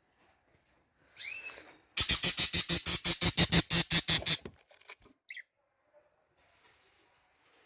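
A bird gives a short rising chirp, then comes a loud, fast rattle of about fourteen harsh strokes lasting a couple of seconds, with another faint chirp after it.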